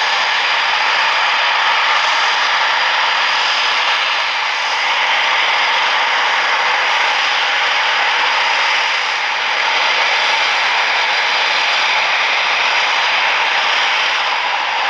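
Eurofighter Typhoon's twin jet engines running steadily: a loud rushing noise with a high whine on top, swelling slightly now and then.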